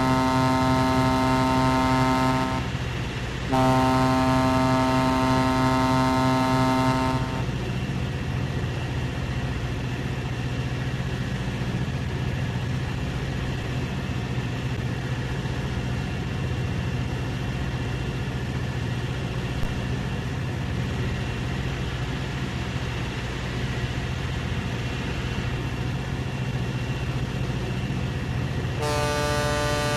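Ship's horn sounding two long blasts over a steady low hum, with a shorter, higher-pitched blast near the end.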